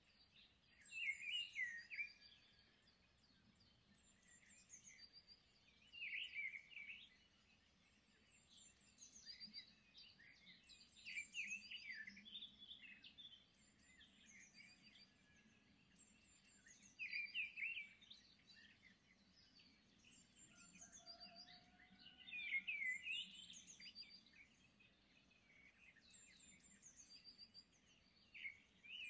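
Small birds chirping and twittering in short bursts every few seconds, with quick high chirps between the bursts.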